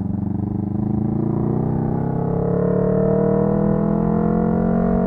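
Exhaust of a Honda CB125T's parallel-twin engine through a loud muffler, pulling under acceleration with its pitch rising steadily.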